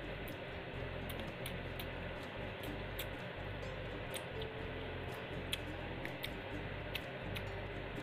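Close-up eating sounds: chewing with scattered small, sharp mouth clicks and smacks, about one or two a second, over a steady low hum.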